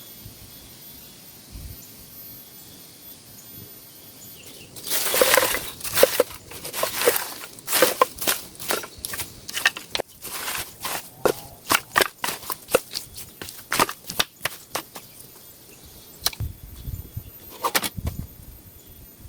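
Vegetation being handled and snapped: a quick, irregular run of sharp cracks and rustles starts about five seconds in and goes on to near the end. Before it there is only a faint steady high tone.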